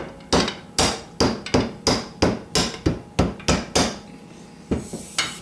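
Mallet striking a piece of broom handle, about a dozen steady blows at roughly three a second, then a short pause and two more, to drive the tight rear plug out of an Edgun Matador R3 air rifle's air tube.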